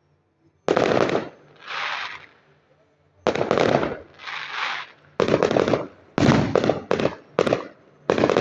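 Fireworks display: aerial shells bursting with sharp bangs, a few seconds apart at first and then in quick succession, about one a second or faster in the second half. Softer hissing noise follows the first bangs.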